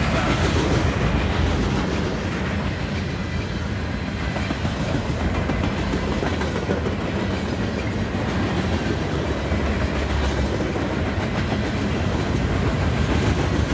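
Loaded freight-train flatcars rolling past at close range: a steady rumble of steel wheels on the rails.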